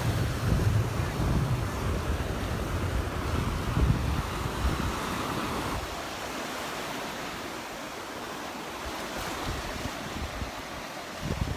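Calm surf washing on the beach, with wind rumbling on the microphone for about the first half, then easing off.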